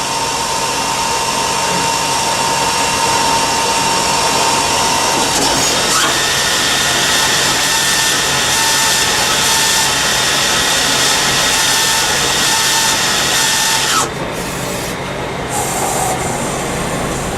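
CNC lathe machining metal: a steady cutting noise with a thin whine that jumps higher about six seconds in. The whine cuts off abruptly near the end, leaving a patchier, quieter machine noise.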